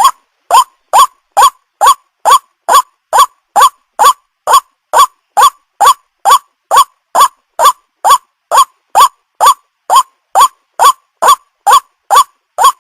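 White-breasted waterhen (ruak-ruak) call repeated steadily: one short note rising to about 1 kHz, about two and a half times a second, with clean silence between calls.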